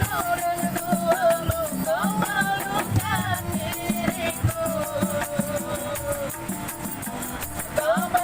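A street busker's song: a singing voice with instrumental accompaniment over a fast, steady shaker rhythm, with a long held, slowly falling note about halfway through.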